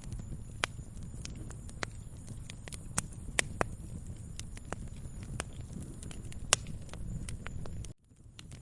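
Wood fire crackling: irregular sharp pops and snaps over a steady low rumble of the flames. The sound cuts out suddenly for a moment near the end and then comes back.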